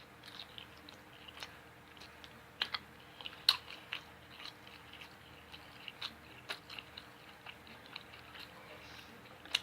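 Close-miked chewing of a person eating, with scattered short wet mouth clicks and smacks; the sharpest comes about three and a half seconds in.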